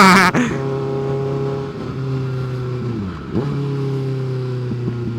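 Kawasaki ZX-6R 636 inline-four engine running steadily while riding. About three seconds in the revs sag, then climb sharply again, as around a gear change.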